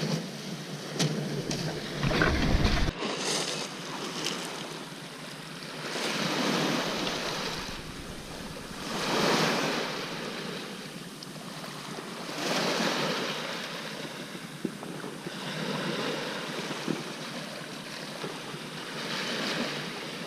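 Small waves washing in and drawing back, swelling and fading every few seconds, with wind buffeting the microphone about two seconds in.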